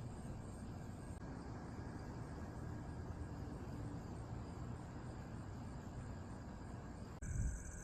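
Steady outdoor background of insects droning on one note, over a low rumble. About seven seconds in the sound changes abruptly, with a brief low thump, after which the high insect tones stand out more clearly.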